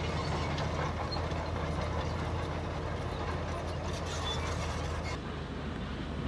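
Heavy diesel earthmoving machinery running steadily, with a constant low engine hum and scattered metallic clicks and rattles.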